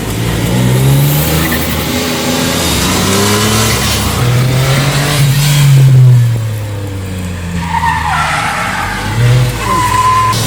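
Lancia Ypsilon HF Racing rally car being driven hard, its engine revving up and falling back through the gears, with tyres squealing briefly about eight seconds in and again near the end.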